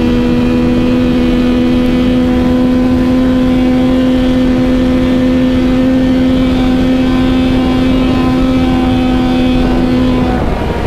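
Yamaha MT-09 three-cylinder engine held at steady high revs at speed, with heavy wind rush over the microphone. Near the end the throttle closes and the engine note drops away.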